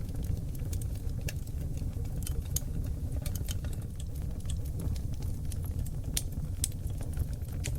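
Wood fire burning in a fireplace: a steady low rumble of flames with many small, irregular crackles and pops from the burning oak logs.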